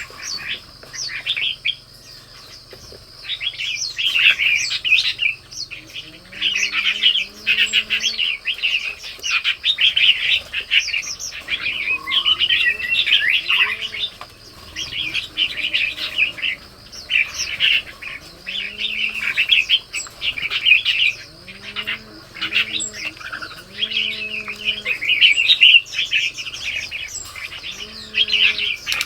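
Red-whiskered bulbuls chirping and calling in a busy, continuous run of short bright notes, over a steady high-pitched hum. Lower curved calls, rising then falling, join in several times from about a fifth of the way in.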